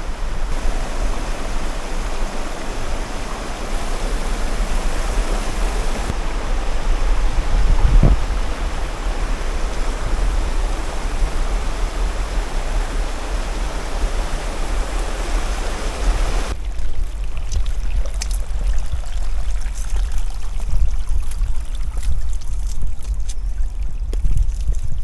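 A mountain stream rushing over rocks, an even hiss of flowing water, which cuts off abruptly about two-thirds of the way through. After that, wind rumbling on the microphone with scattered small knocks.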